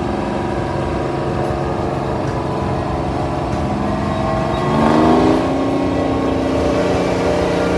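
Old engine running as it passes in a parade, revving up about five seconds in, then holding at the higher speed.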